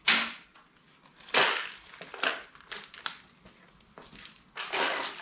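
Packaging crinkling and crumpling in several short bursts as it is handled and opened, with a few light clicks in between.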